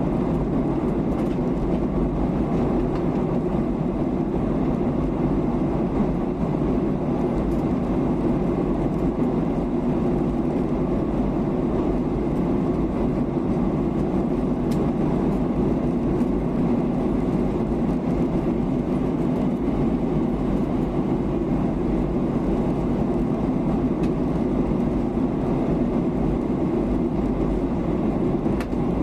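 Steady cabin noise inside a Boeing 737-800 in flight: the even hum of its CFM56-7B engines mixed with air rushing past the fuselage.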